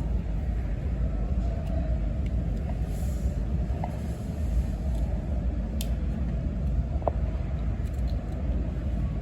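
Steady low rumble of ice-rink background noise, with a few faint clicks and knocks.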